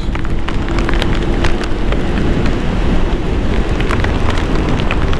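Heavy rain striking a motorcycle helmet and chin-mounted GoPro at riding speed: many sharp drop impacts over a steady rush of wind noise.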